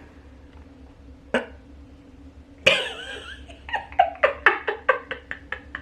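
A person's voice: a loud outburst about halfway in, then a fast run of short voiced pulses, about four or five a second, fading as they go.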